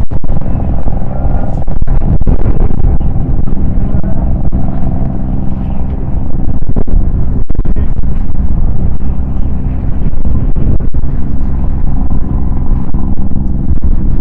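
Strong gusting wind buffeting the microphone: a loud, continuous low rumble.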